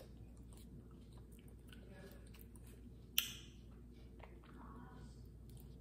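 Faint chewing and mouth sounds of a person eating ice cream from a wafer cone. A single sharp, crisp click about three seconds in.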